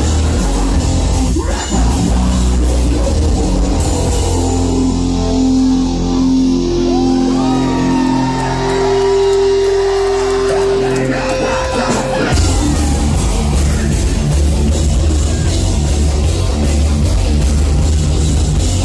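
Heavy metal band playing live through the PA in a hall. The first part is a quieter stretch of held, bending notes over a low drone, and about twelve seconds in the full band with drums crashes back in.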